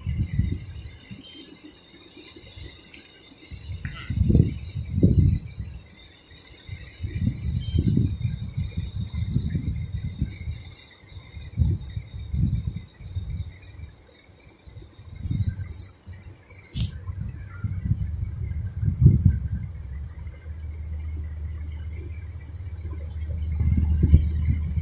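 Steady, high-pitched chorus of insects such as crickets, with irregular low thumps and rumbles throughout.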